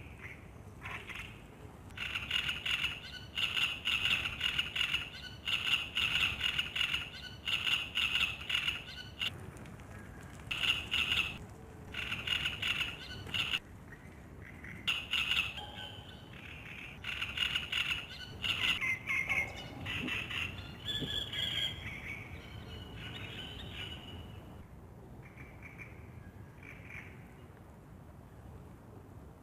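Bird calling at dawn by a lake: a series of loud, buzzy calls about half a second to a second long, repeated with short gaps, dying down to a few faint calls about twenty-four seconds in.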